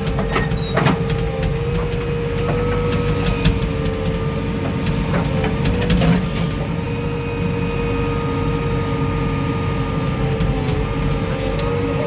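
Diesel engine of a JCB 3DX backhoe loader running steadily, with a constant whine over the low rumble and scattered light clicks and knocks.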